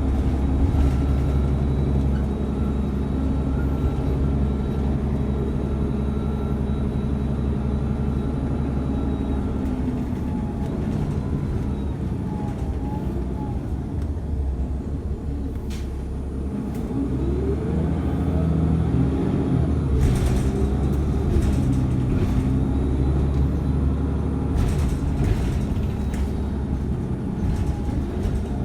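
Ride noise inside a moving city transit bus: the engine runs steadily, its pitch rises and falls twice as the bus slows and pulls away, and short hissing bursts like air brakes are heard near the middle and end.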